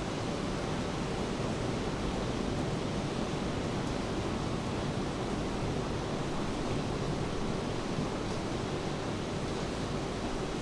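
Steady rainfall, an even wash of noise with no single drops or other events standing out.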